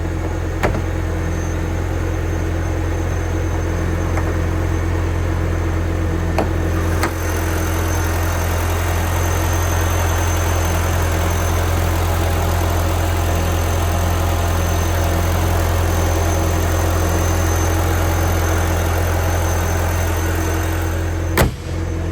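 A 2002 Audi TT 225 quattro's 1.8-litre turbocharged four-cylinder idles steadily while warming up from a cold start. A few short clicks can be heard, and there is a sharper knock near the end.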